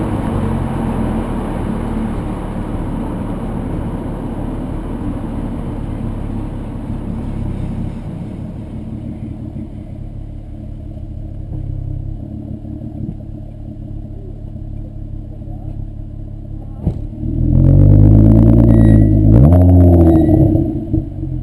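VW 2.8 VR6 24-valve engine through a Milltek non-resonated exhaust, running lightly at low revs for most of the stretch. About seventeen seconds in it is revved hard, the pitch climbs, dips briefly at a gear change and climbs again, then it backs off near the end.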